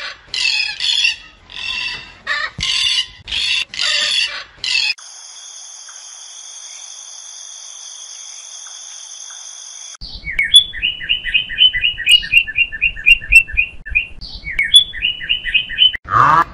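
Macaw squawking in a string of about half a dozen loud calls. Then comes a steady high buzz lasting about five seconds, and from about ten seconds in a rapid run of short high chirps, about four a second.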